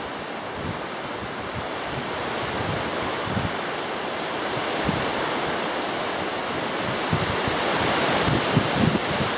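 Strong gusty wind buffeting the microphone, with irregular low thumps over a steady rushing noise that swells a little toward the end.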